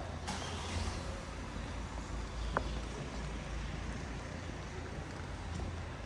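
Street ambience dominated by a steady low rumble of motor traffic, with a sharp click just after the start and a brief high tick about two and a half seconds in.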